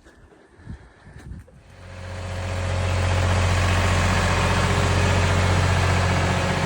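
A vehicle engine running at a steady speed with a low, even hum, fading in about two seconds in after a quiet start with a few light clicks.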